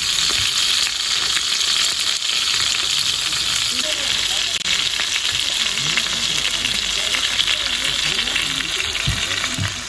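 Food sizzling and frying in a pan, a steady dense hiss full of fine crackles, with a couple of low knocks near the end.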